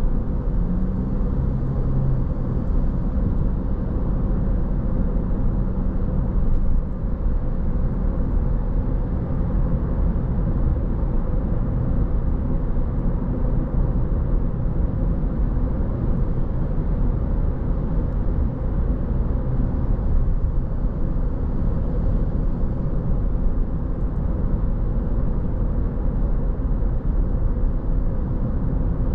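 Steady road noise of a car driving: a continuous low rumble of tyres and engine that stays even throughout.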